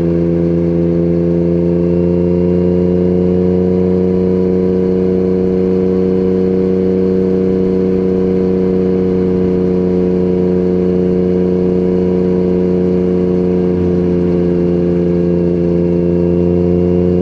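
Yamaha MT-09 inline-three engine running at a steady cruising speed, its exhaust note holding an almost constant pitch.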